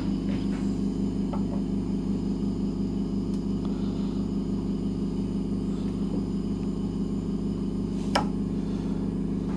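Steady low machine hum with a faint regular pulse, and a single short click near the end.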